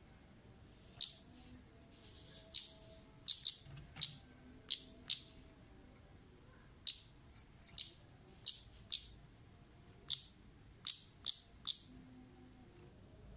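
Female orange-headed thrush (kemade) giving sharp, high 'cit' calls: about eighteen short calls, irregularly spaced and sometimes in quick pairs, starting about a second in. This is a lure call used to draw other kemade to answer.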